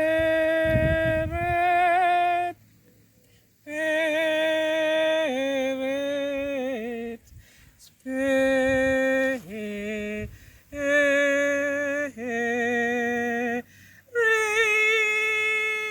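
Solo unaccompanied voice singing a slow worship chorus in long held notes, with short pauses for breath between phrases.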